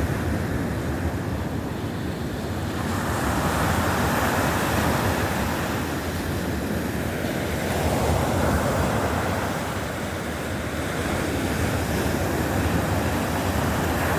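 Baltic Sea waves breaking on the shore, the surf swelling and falling back about every four seconds, with wind rumbling on the microphone.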